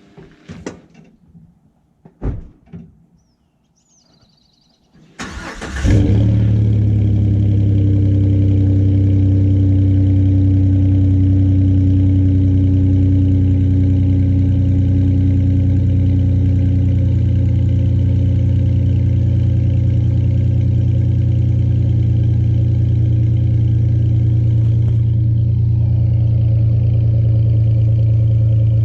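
A few knocks and clicks, then the 2018 Chevrolet Silverado's 4.3-litre V6 cranks and catches about five seconds in. It settles into a steady, deep idle through an MBRP 3-inch cat-back exhaust.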